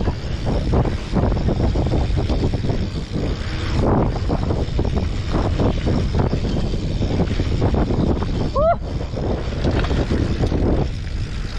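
Mountain bike rattling and jolting over rough trail, with wind rushing over the ride-along camera's microphone as a constant low rumble full of small knocks. One short squeak about three-quarters of the way through.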